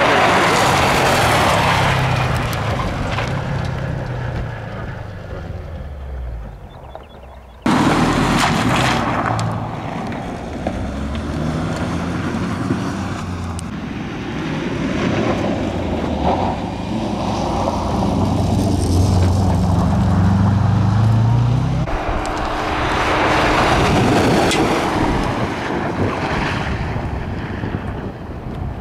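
Rally reconnaissance cars passing on a stage road, their engine notes rising and falling as they go by. The sound breaks off abruptly about seven and a half seconds in and picks up again with another car.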